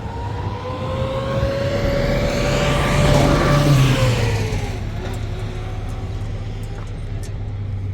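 A motor vehicle drives past close by: its engine and road noise build to a peak about three and a half seconds in, and its tone drops in pitch as it goes by, then fades. A steady low engine hum continues underneath.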